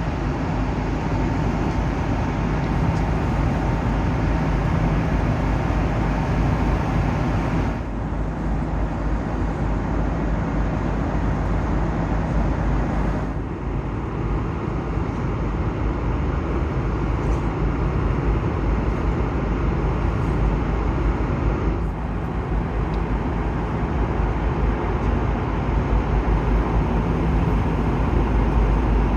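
Steady rumble and hiss of a vehicle in motion, with short breaks about 8, 13 and 22 seconds in.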